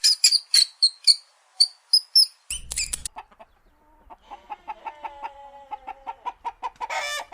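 Bird calls: for about three seconds, quick high chirps, then after a short pause a fast run of clucking notes that ends in a louder harsh call, like a chicken.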